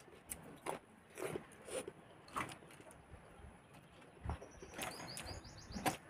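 Close-up eating sounds of a person chewing a mouthful of rice and curry eaten by hand: short, separate wet mouth noises and crunches, one every half second or so. About five seconds in, a bird chirps several times quickly in the background.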